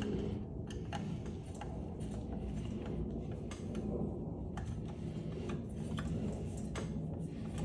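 Scattered light clicks and ticks of a hand screwdriver and small metal parts as a ceiling fan is taken apart by hand, at irregular spacing over a steady low background hum.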